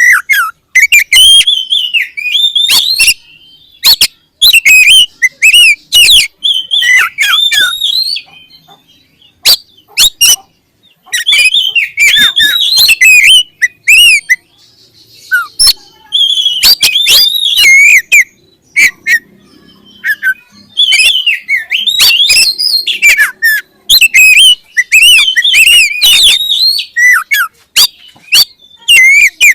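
Oriental magpie-robin (kacer) singing: loud bursts of quick, varied whistled phrases and sharp clicks, broken by short pauses.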